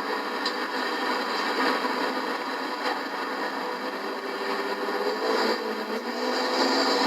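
Engines of racing trucks running together on an oval track, a steady mixed din with engine notes that rise and fall.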